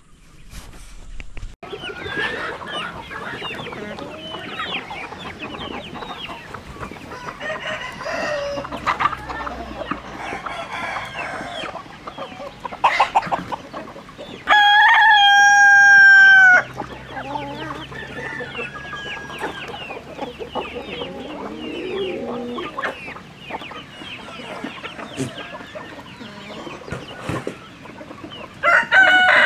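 A flock of chickens clucking and chirping throughout, with a rooster crowing loudly for about two seconds around the middle and starting another crow at the very end.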